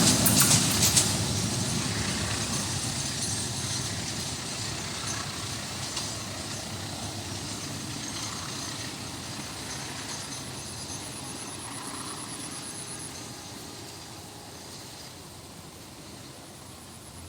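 A passing train moving away, its wheel and rail noise fading steadily into the distance after the last cars go by.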